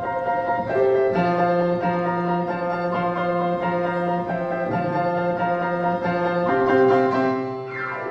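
Piano accompaniment playing sustained chords over a bass line, changing every second or so, with a quick downward glissando near the end.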